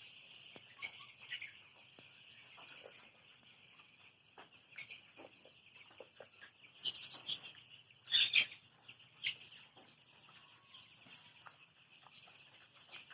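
Chickens chirping and peeping in a steady dense chorus, with scattered louder short calls, the loudest a cluster about eight seconds in.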